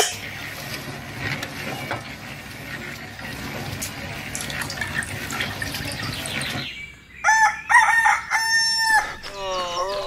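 A small electric motor on a homemade miniature concrete machine runs with a low hum and some splashing as wet concrete pours down its chute, then cuts off about seven seconds in. A rooster crows loudly in two long calls, followed just before the end by a short, wavering call.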